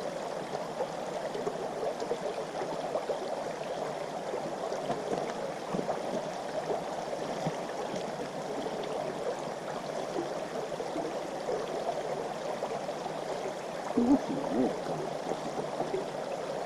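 Clear mountain river flowing, a steady rushing of water, with a short low sound about fourteen seconds in.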